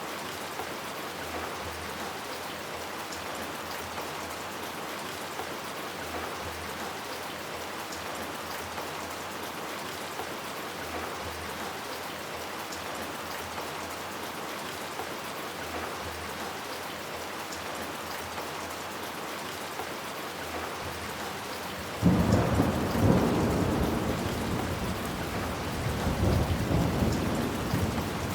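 Steady rain falling, then about 22 s in a sudden loud clap of thunder that rumbles on, swelling again a few seconds later before fading back under the rain near the end.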